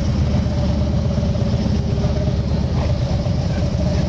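A motor vehicle engine, most likely a motorcycle's, running steadily at idle.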